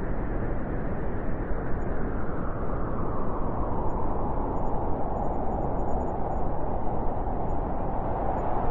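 Wind blowing as a steady rush of noise, its hiss growing a little stronger about three seconds in.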